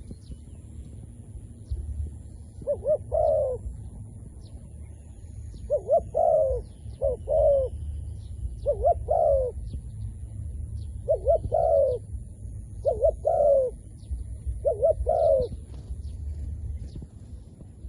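A dove cooing repeatedly, seven short phrases of a few quick rising-and-falling coos each, about every two seconds.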